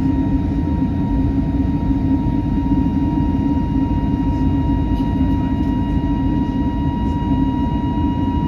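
Steady jet-engine roar inside a Boeing 737's cabin, a deep rumble with a constant whine, as the jet runs at high thrust.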